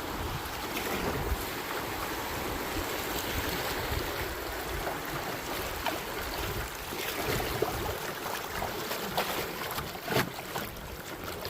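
Fast river water rushing around a canoe running a shallow stretch of rapids, with wind on the microphone. A few short sharp sounds stand out over the rush, the loudest about ten seconds in.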